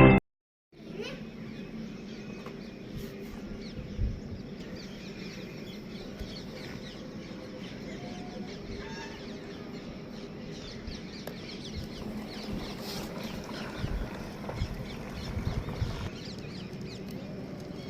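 Background with faint, scattered calls of birds, likely chickens clucking, over a steady low hum. A few soft low thumps come about four seconds in and again in a cluster later on.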